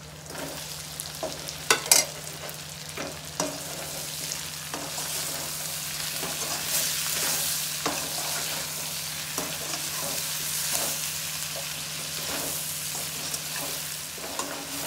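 Potatoes and onions frying in oil in a steel kadhai with spices just added, sizzling steadily while a steel spatula stirs them, scraping and clicking against the pan. There are a couple of sharp metal knocks about two seconds in.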